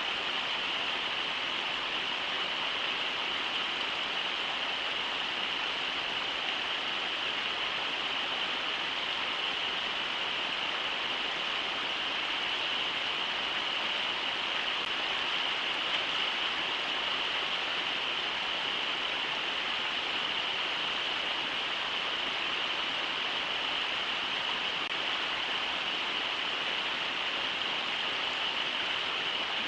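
Brooks River rushing steadily over shallow rapids (riffles), a continuous even water noise.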